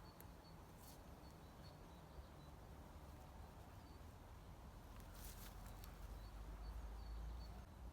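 Near silence of forest ambience, with faint, short, high bird chirps repeating through it and a couple of soft clicks.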